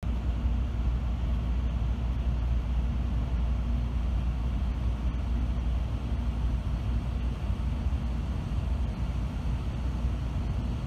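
Steady low rumble inside the passenger cabin of an N700-series Tokaido Shinkansen train as it rolls slowly along the platform into a station.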